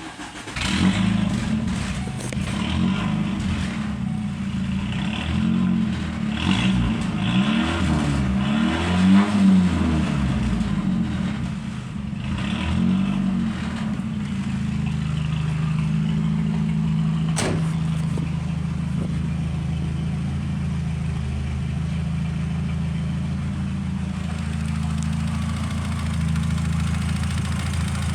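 Volkswagen Transporter T4 engine coming to life, revved up and down several times over the first dozen seconds, then settling into a steady idle. There is a single sharp click about seventeen seconds in.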